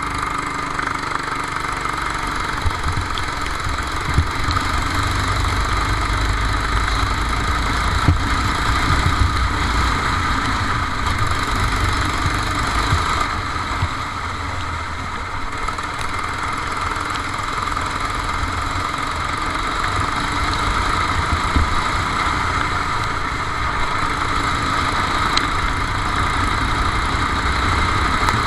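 Go-kart engine running steadily under way, heard onboard, with a few short knocks.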